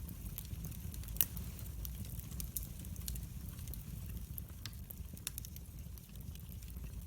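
Wood fire crackling in a fireplace: scattered sharp pops and snaps over a steady low rumble of the flames, with one louder pop about a second in.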